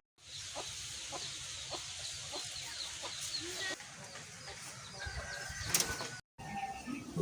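Chickens clucking, with small birds chirping over a soft outdoor background.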